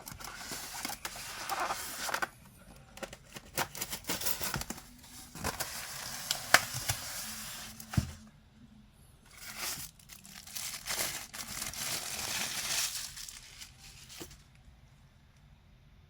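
Packaging of a collectible statue being handled during an unboxing: crinkling and rustling in several stretches, with scattered clicks and light knocks. It dies down near the end.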